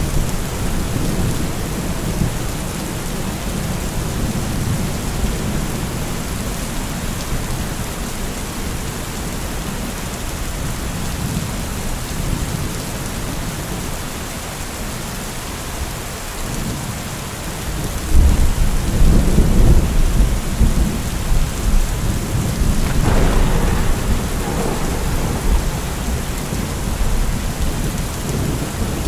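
Heavy rain falling steadily, with thunder rumbling low under it; a louder roll of thunder comes in about two-thirds of the way through, with a sharper crack a few seconds later.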